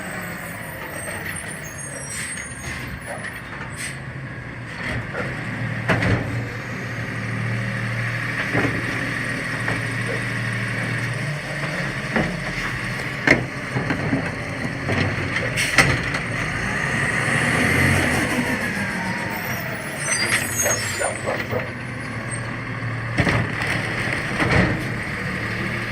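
CNG garbage truck with its engine running steadily, several sharp clanks and a whine that rises and falls about two-thirds of the way through.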